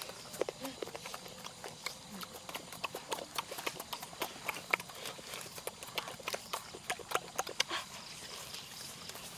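A person chewing and smacking while eating roasted quail: irregular wet clicks and snaps, several a second.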